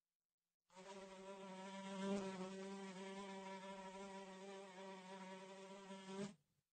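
Housefly buzzing in flight: a steady, even-pitched wing buzz that starts shortly after a brief silence and cuts off abruptly near the end.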